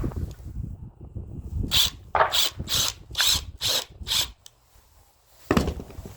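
A tool working at a stuck, greasy mixer part: six short rasping strokes about two a second, then a single heavier knock near the end.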